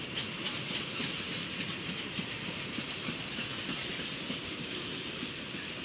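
Freight train cars rolling past a grade crossing, a steady rumble with the wheels clacking over the rail joints.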